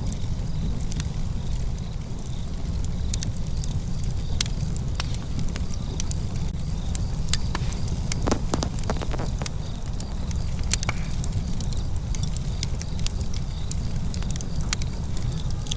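Wood fire crackling, with scattered sharp pops and a quick run of them about eight seconds in, over a steady low rumble.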